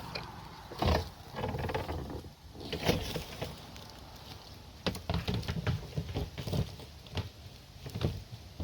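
Rustling and crackling in dry leaves and brush, with a few sharp knocks spread through it, as a snake is let go from a plastic tote into leaf litter.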